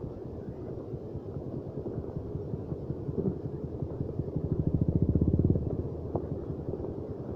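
Trail motorcycle engine running with a fast, even beat, revving up to a louder burst about five seconds in and then dropping back.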